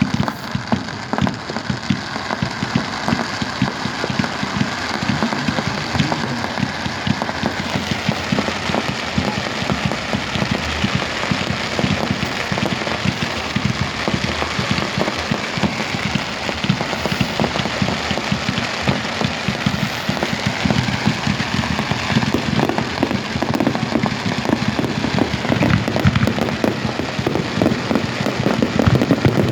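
Fireworks going off: a dense, continuous crackle of many small pops, with louder bangs now and then.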